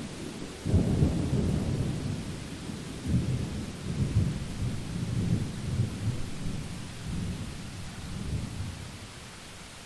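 Rolling thunder over steady rain: a low rumble breaks in about a second in, rolls on in swells and dies away near the end, leaving the even hiss of the rain.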